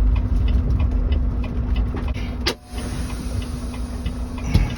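Semi-truck engine and road noise heard from inside the cab: a steady low rumble and hum with a run of light, regular ticks. About halfway through a sharp click comes and the sound briefly drops away, and near the end the hum stops.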